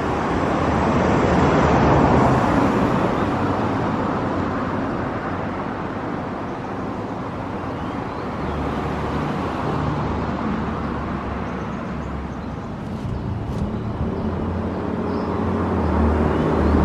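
Porsche 981 Cayman S's 3.4-litre flat-six engine and exhaust running with the car under way, over road noise. The sound swells about two seconds in, eases through the middle and rises again near the end.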